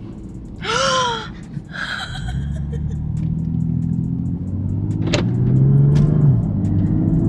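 Single-turbo BMW M3 CS straight-six heard from inside the car, pulling under acceleration with its pitch climbing. The pitch dips briefly about six seconds in, like a gear change, then climbs again. About a second in there is a short high cry that rises and falls.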